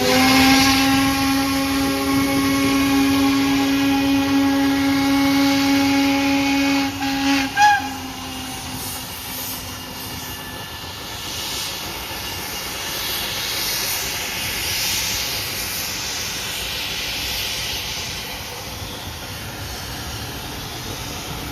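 Steam locomotive whistle blowing one long, steady blast that cuts off after about seven and a half seconds, followed by a steady hiss of steam.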